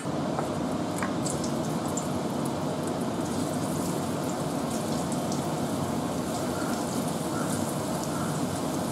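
Spice-coated okra sizzling as it deep-fries in hot oil: a steady hiss scattered with small crackles and pops.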